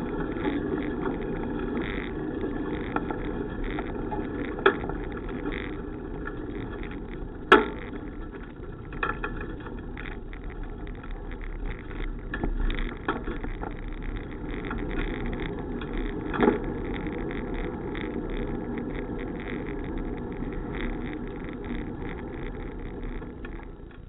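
Steady rumble of a bicycle being ridden: tyre and wind noise, broken by a few sharp clicks or rattles, the loudest about a third of the way in.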